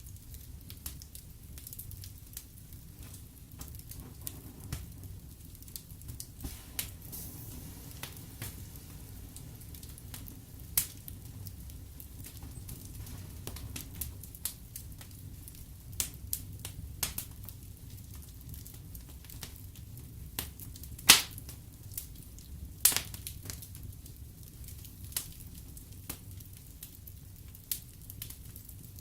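Wood fire burning in a fireplace: a steady low rumble of flames with irregular crackles and sharp pops from the logs, the loudest pops about 21 and 23 seconds in.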